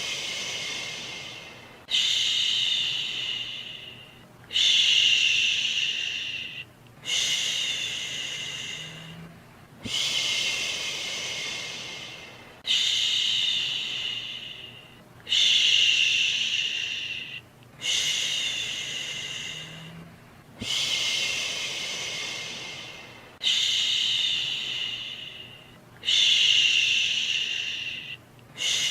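Repeated 'shhh' shushing to soothe a baby: a long hissing 'shh' about every two and a half seconds, each one starting sharply and fading away, over faint steady white noise.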